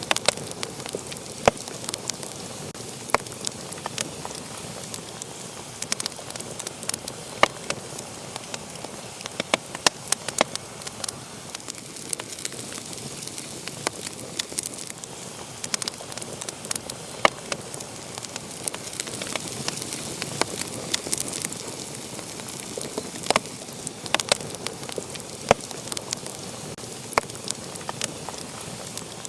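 Wood fire burning in a fireplace, crackling with a steady hiss and frequent sharp, irregular pops.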